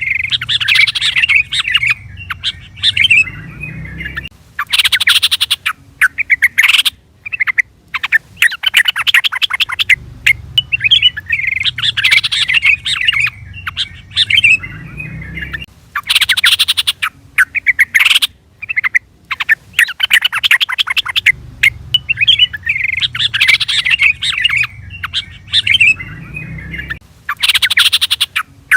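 Yellow-vented bulbul (trucukan) calling: bubbly, liquid phrases alternating with bursts of rapid harsh chatter. The same sequence repeats about every 11 to 12 seconds, as a looped call track.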